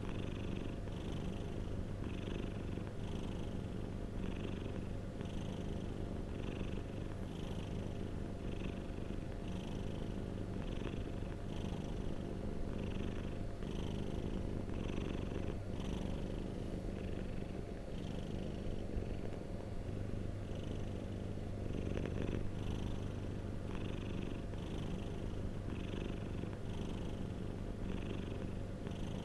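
Domestic cat purring steadily, a continuous low rumble with a regular rhythmic pulse as it breathes in and out.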